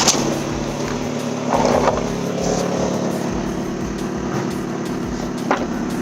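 Mazda Miata's four-cylinder engine idling steadily, with a brief rustle about one and a half seconds in and a click near the end.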